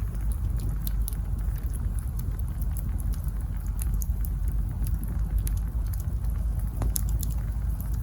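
Campfire wood burning and crackling, with scattered sharp pops over a steady low rumble; one stronger pop comes about seven seconds in.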